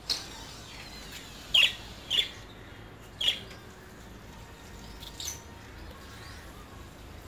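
A bird giving short, sharp chirps, about five of them spaced irregularly a second or so apart, over a faint steady background.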